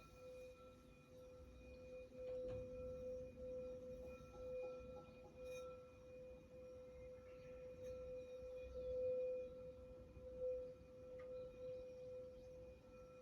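Crystal singing bowl ringing with one long sustained tone that swells and fades in a slow pulse, with fainter higher overtones above it.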